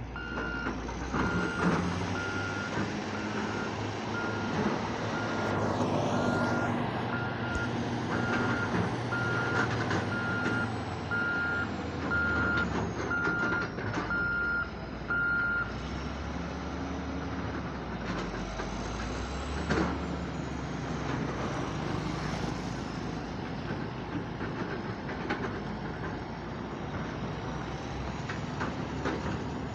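A reversing alarm on heavy diesel machinery beeps in a steady repeating pattern over running diesel engines, and stops about halfway through while the engines keep running.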